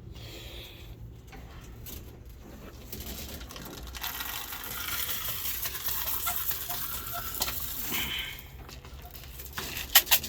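Pigeon feed grain being poured, a rattling patter of seed that runs for about four seconds, then a few sharp knocks near the end.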